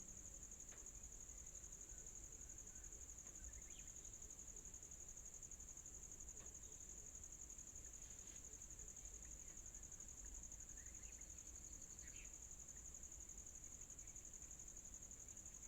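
Crickets chirring in a steady, high-pitched chorus, with a few faint short chirps scattered through it.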